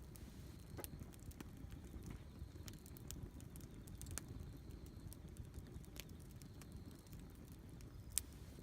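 Wood campfire burning: a low steady rumble of flames with scattered crackles and small pops, and one sharper pop near the end.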